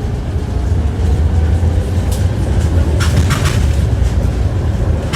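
Tram running along the track, heard from inside the car: a steady low rumble of the running gear, with clusters of sharp clattering knocks as the wheels strike rail joints, starting about two seconds in and coming thicker from three seconds on.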